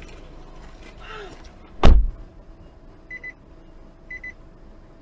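A car collision: one loud, sudden crash about two seconds in. After it a vehicle's electronic warning chime beeps in short double beeps about once a second.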